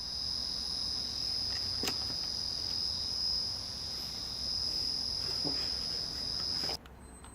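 Wagner 1/3 hp three-phase motor driven by a Reliance Electric variable frequency drive, running with a steady high-pitched whine over a faint low hum, typical of a VFD-fed motor. The whine cuts off abruptly near the end.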